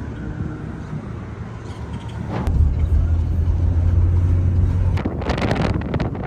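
Car running on the road: a steady low rumble that grows louder about two and a half seconds in, then a short burst of rushing noise near the end.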